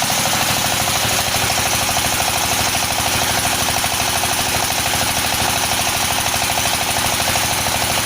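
Floating fish-feed pellet machine running steadily, its engine keeping up an even, rapid pulsing beat.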